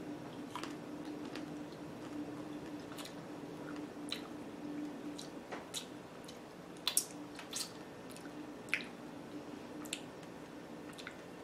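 Chewing a chocolate-covered strawberry close to the microphone: scattered soft mouth clicks and smacks over a faint steady hum.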